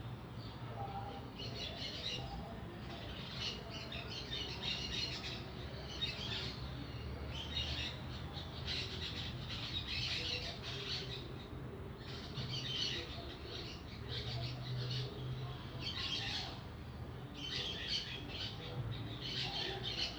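Small birds chirping and twittering in repeated bursts, with a low steady hum underneath.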